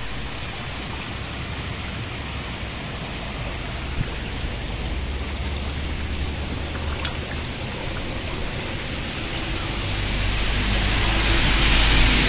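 Heavy rain falling on flooded ground and pooled water, a steady hiss of drops. A low rumble swells near the end.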